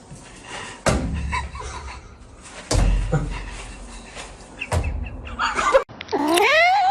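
Three dull thumps, about two seconds apart. Near the end a cat meows once, a call that bends up and down in pitch.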